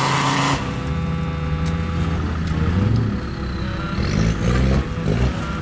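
Car engine sound, running low and rising and falling in pitch a few times like revving. A steady hiss over it cuts off about half a second in.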